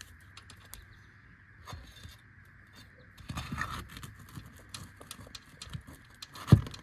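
A flat bar prying a roofing nail up from under an asphalt shingle, with metal clicks and scraping that grow busier about halfway through. A sharp knock near the end is the loudest sound. The nail is rusty and tears through the shingle as it comes out.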